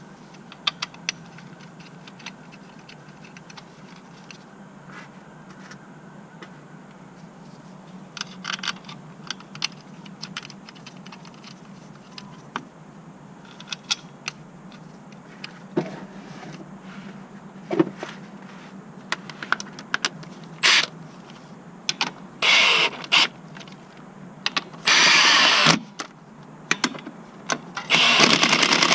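Tools clicking and knocking against car parts during clutch replacement work, over a steady low hum. In the last third come several loud bursts of about a second each.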